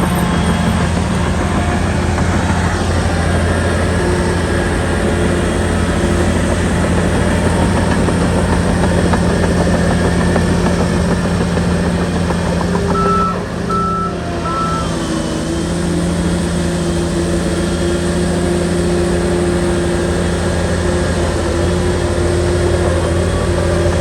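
Heavy diesel engine of a Shantui bulldozer running steadily under load. About halfway through, a reversing alarm gives three short beeps.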